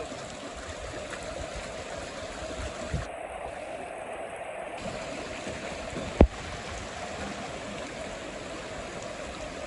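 Floodwater rushing steadily in a creek running out of its banks. A single sharp knock is heard about six seconds in.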